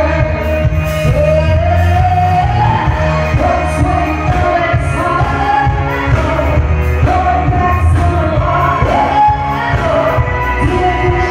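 Live band playing a song with a lead vocal over heavy bass and drums, heard loud and boomy in a large room.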